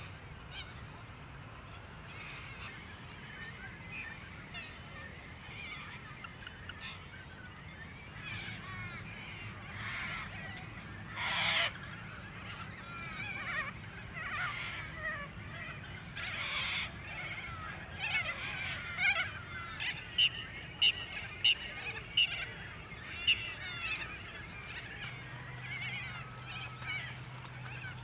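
Several birds calling, with a loud harsh call about eleven seconds in and a run of about six sharp, evenly spaced calls a little past the middle.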